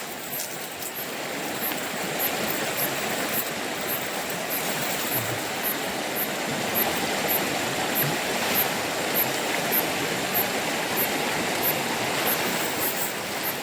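River water rushing steadily. A faint high-pitched pulse repeats about twice a second above it.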